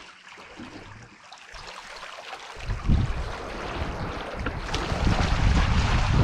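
Strong wind buffeting the microphone over the noise of the sea, in gusts that swell and grow louder about two and a half seconds in.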